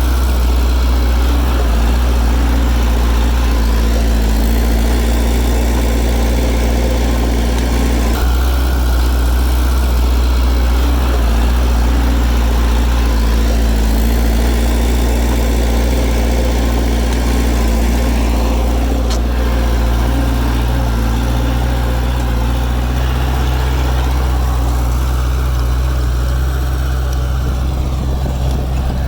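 Heavy diesel engine running steadily with a continuous low drone, its note shifting slightly about eight seconds in and again near twenty seconds.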